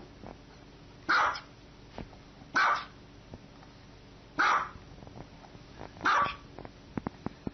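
Small white dog barking four times, single short barks spaced about a second and a half to two seconds apart.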